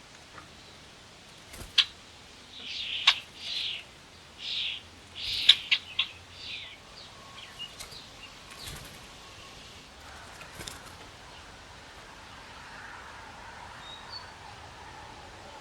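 Small backyard birds chirping: a run of short, harsh chirps with a few sharp clicks among them, mostly in the first half, then fainter scattered chirps over a steady hiss.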